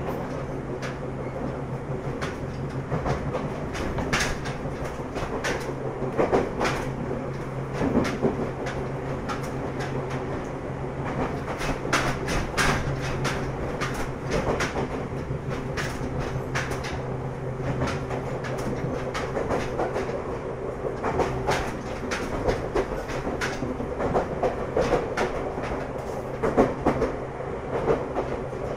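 Ryutetsu 5000-series electric train running, heard from inside the car: a steady low hum and rumble, with irregular sharp clicks of the wheels passing over rail joints.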